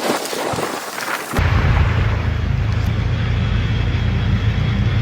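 Storm noise: a wide hiss of wind and water, then, from about a second and a half in, a steady heavy low rumble.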